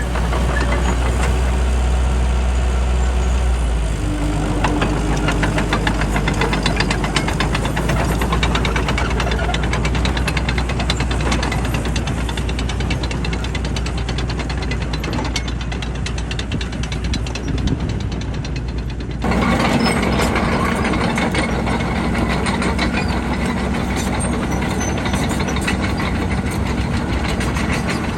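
Bulldozer's diesel engine running steadily under work. Its note shifts about four seconds in, and the sound changes abruptly about two-thirds of the way through.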